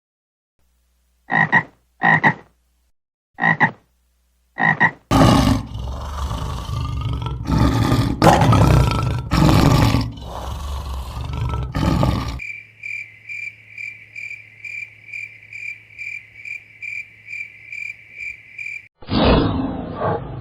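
A run of different animal calls one after another: four short high calls, then a stretch of loud, harsh calls, then a steady high chirp repeating about three times a second, and another harsh call near the end.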